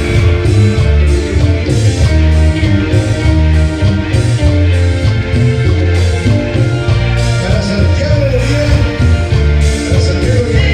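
Tropical band playing a romantic song with a steady beat: bass, keyboards, guitar, congas and drums, with no words sung.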